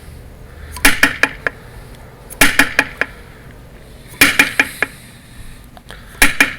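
Handmade wooden woodpecker door knocker built like a tongue drum, its hollow body struck in quick bursts of four or five knocks. A burst comes about every two seconds, four in all, each knock with a short pitched ring.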